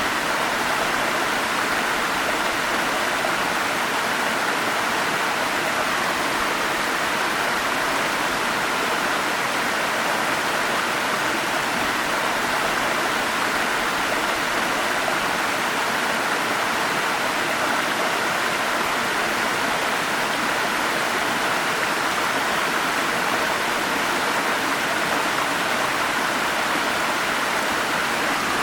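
Forest stream flowing, a steady rushing of water that holds even throughout.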